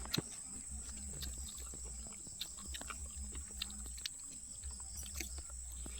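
Chewing and mouth smacking while eating, heard as many small irregular clicks over a steady low hum.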